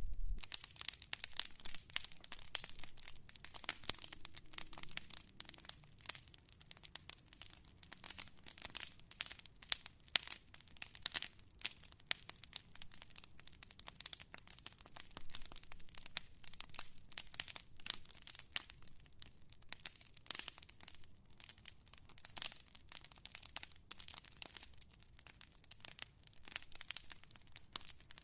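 Fire crackling: a steady run of irregular small pops and snaps, some sharper than others.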